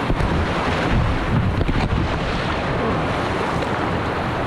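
Rushing whitewater of river rapids as a kayak runs through them: a steady, dense roar of water, with wind buffeting the microphone.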